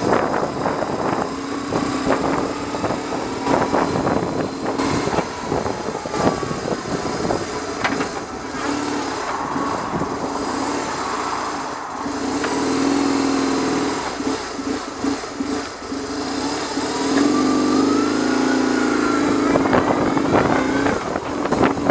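BMW R1100R's air-cooled boxer twin running on the road, with heavy wind buffeting on the microphone. The engine note climbs and falls about three quarters of the way through as the bike speeds up.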